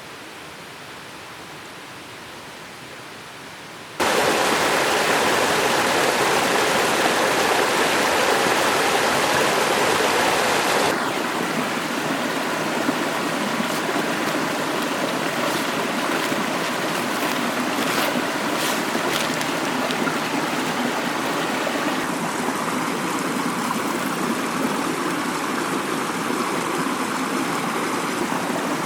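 Mountain stream flowing, a steady rush of water. A faint hiss for the first few seconds gives way suddenly to the loud water about four seconds in, which steps down somewhat about eleven seconds in and changes again a little after twenty seconds, as if shots were cut together.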